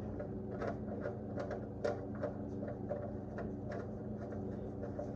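Faint, irregular clicks and rubbing from a metal oil drain plug being handled and wiped with a rag, over a steady low background hum.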